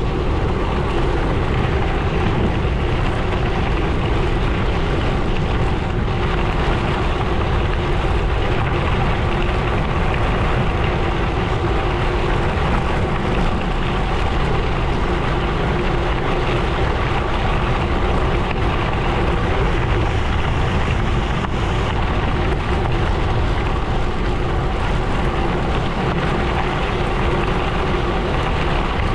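Gravel bike tyres rolling steadily over a gravel road, with wind rumbling on the microphone.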